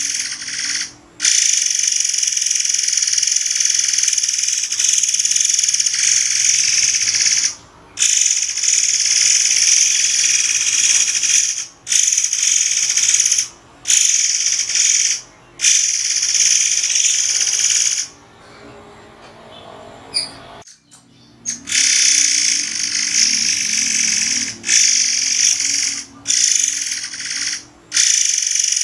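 Murai air songbird singing loud, rapid, high-pitched trilling phrases of a few seconds each, broken by short sudden pauses, with a longer quieter break about two-thirds of the way through.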